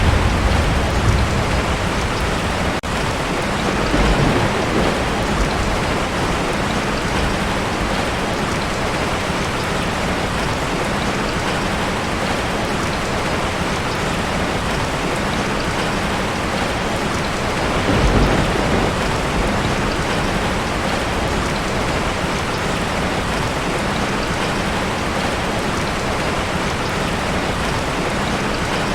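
Heavy rain on a tin roof, a steady dense patter. A low rumble of thunder dies away at the start, and two brief, fainter rumbles swell up a few seconds in and a little past the middle.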